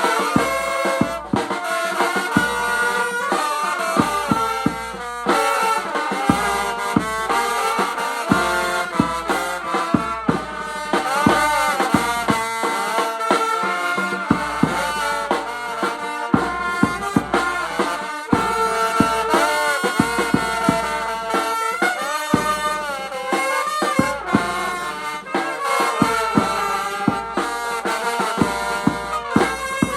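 Vietnamese funeral band music (nhạc tây): wind instruments playing a bending, continuous melody over drum beats.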